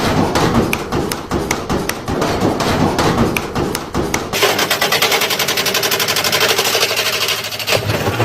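Washing machine banging violently, a fast irregular run of hard knocks and thuds. About halfway through it changes abruptly to a quicker, steadier rattle.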